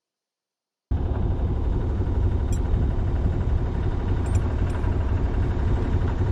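Silence for about the first second, then a sailing boat's engine running steadily under motor: a constant low rumble.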